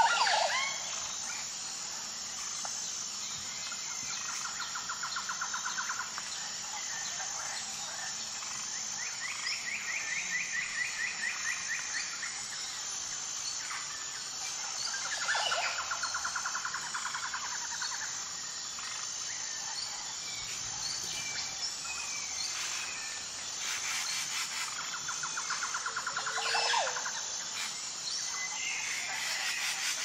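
Bird calls: four rattling trills of two to three seconds each, a few seconds apart, with a few sharp sweeping squawks, the loudest at the start, over a faint steady high pulsing in the background.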